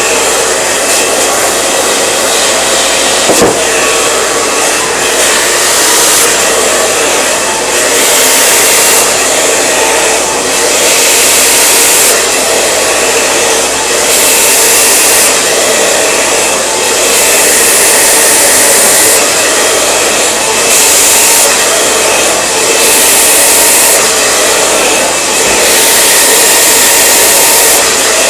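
Hand-held hair dryer blowing steadily at close range. Its hiss brightens and dulls every second or two as it is worked along the hair, with one short click about three seconds in.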